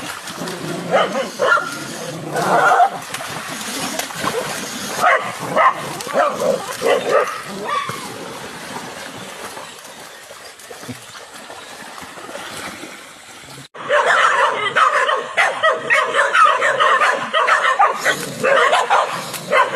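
A dog yipping and whining in short, pitch-bending calls. About 14 seconds in the sound cuts off abruptly, and afterwards the yips come dense and continuous.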